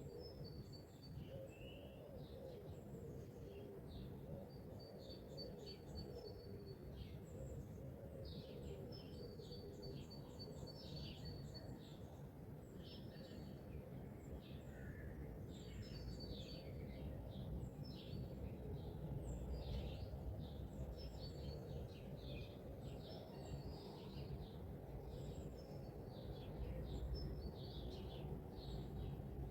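Several songbirds singing and chirping, with many short chirps and fast trills, over a steady low background rumble.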